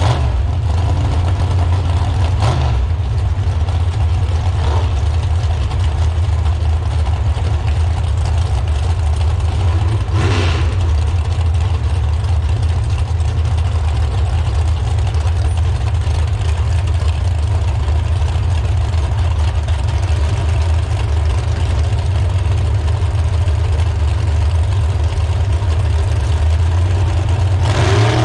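An engine idling steadily with a deep, low-pitched sound that holds even throughout.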